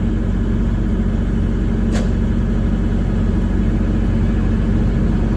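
A truck's engine idling steadily with a low, even hum, and a single short click about two seconds in.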